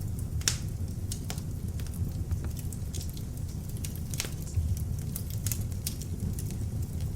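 Beech logs burning in an open fireplace: a steady low rumble of flame under irregular crackles and sharp pops, the loudest snap about half a second in.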